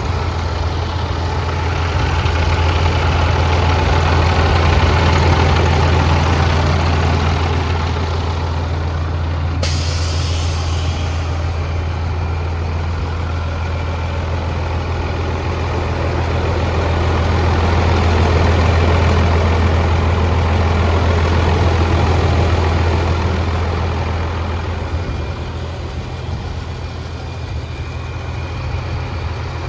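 International DT466 inline-six diesel engine of a 2000 International 4900 truck idling steadily. A sudden air hiss comes in about ten seconds in and fades over a couple of seconds.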